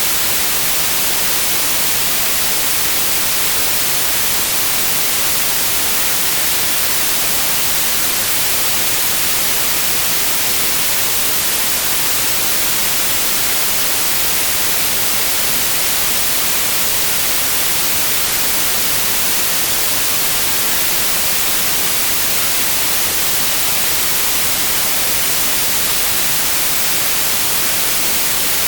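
Continuous white noise: a steady, even hiss, bright and strongest in the high end, with no change in level or pitch.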